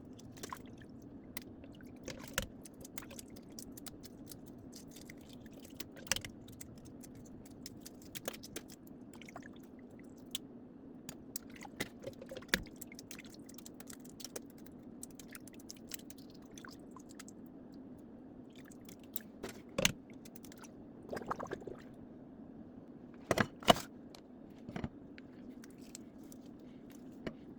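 Hands peeling a boiled egg: scattered small crackles and clicks of the shell breaking away, a few louder ones near the end, over a steady low hum.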